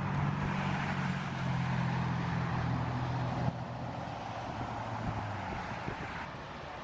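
Jet airliner's engines at takeoff power, a steady distant rushing with a low hum that fades out about halfway through.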